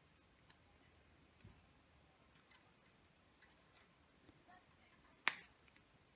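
Small scattered clicks and taps of plastic and tool on a fluorescent fixture's lamp holder as its tab is pried up, with one sharp snap about five seconds in.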